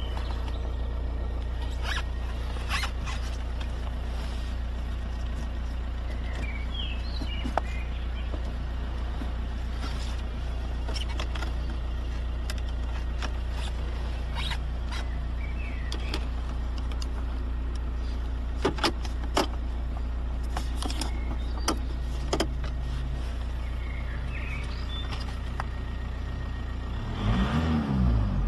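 Steady low vehicle engine hum, with scattered sharp clicks and a few short high chirps. Near the end, a lower engine sound joins in and rises and falls in pitch.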